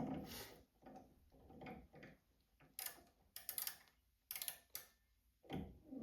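Faint, scattered clicks and light knocks from small metal tools being handled at a lathe, with a cluster of sharper clicks in the middle.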